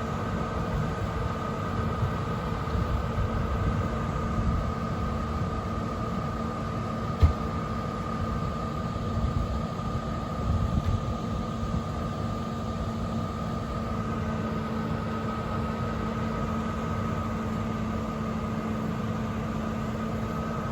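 Steady engine hum of idling emergency vehicles, a fire truck and an ambulance, over a low uneven rumble, with a single sharp knock about seven seconds in.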